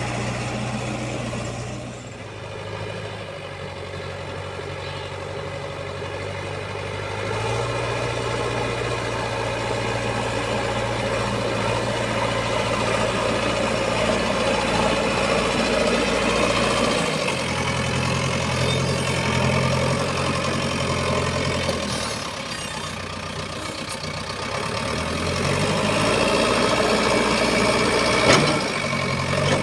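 Heavy diesel machinery engine running at work, its speed dropping and rising several times as it is loaded and eased off. A single sharp clank is heard near the end.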